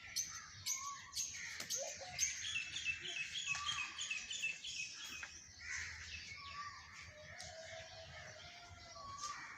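Several birds chirping and calling over one another, with a quick run of repeated chirps a couple of seconds in.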